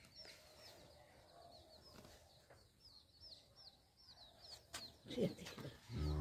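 Faint, high, short chirps from birds, repeating a few times a second. A couple of sharp clicks come near the end, then a louder, steady low tone starts just before the end.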